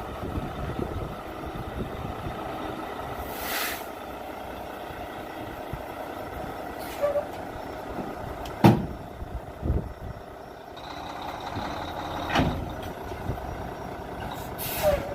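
Semi tractor running as it backs under a trailer to couple, with two short hisses of air and several heavy clunks, the loudest about two-thirds of the way in, as the fifth wheel takes the trailer's kingpin.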